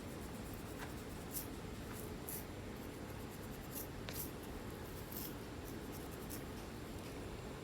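Scratching at a flaky scalp: short, dry, high scrapes at irregular intervals over a steady low hum.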